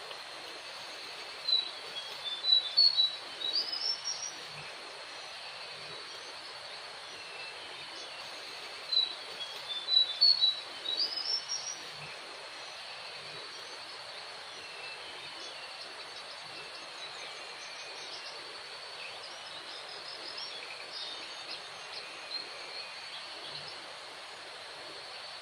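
Brown jongkangan call played from an MP3 lure beside a trapping net: two loud phrases of quick rising chirps several seconds apart, then fainter calls, over a steady insect hum.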